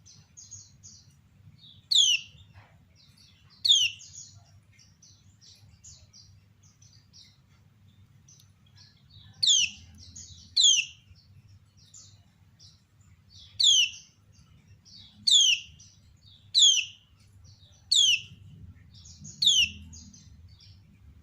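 Female kecial kuning (Lombok yellow white-eye) giving its sharp 'ciak' call, each a quick downward-sweeping note, nine times at uneven intervals. Softer, short high chirps fill the gaps between the calls.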